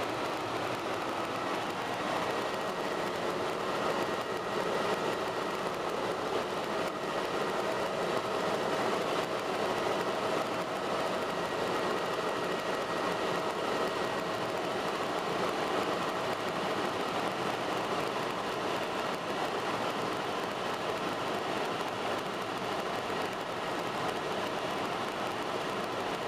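Helicopter in flight: a steady drone with a faint high whine.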